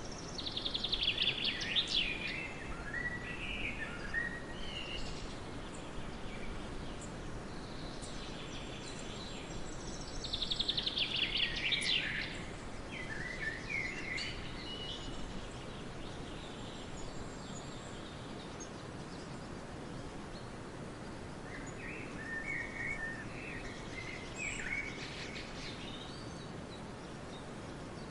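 Songbirds singing over a steady background hiss: two loud, rapid trilled phrases about ten seconds apart, with scattered shorter chirps and softer calls later on.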